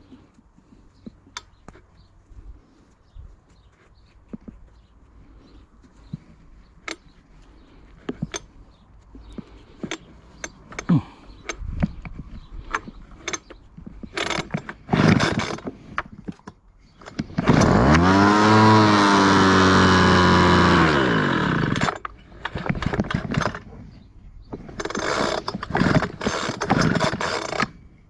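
Clicks and rattles of a recoil pull starter being handled, then pulls on the starter cord of a Homelite leaf blower's small two-stroke engine. Just past halfway the engine catches and runs for about four seconds, its pitch rising and then falling as it stops, followed by more short pulls near the end.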